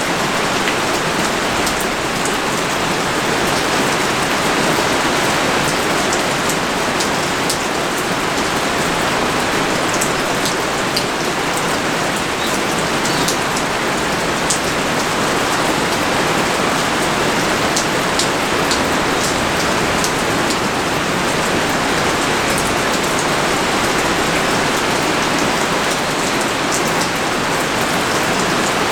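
Steady heavy rain pouring down in a dense, even hiss, with scattered single drops ticking close by.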